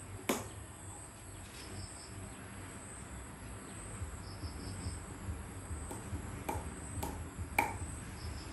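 Insects chirping: a steady high-pitched whine with short pulsed trills of about four beats every few seconds. Several sharp clicks cut through, the loudest about a third of a second in and another near the end.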